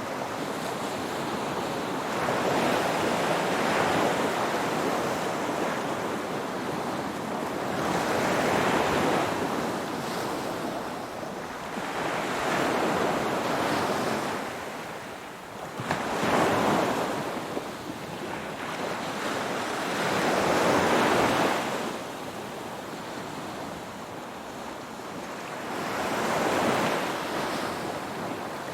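Ocean waves washing in, in slow surges that swell and fade about every four to five seconds over a constant hiss of surf.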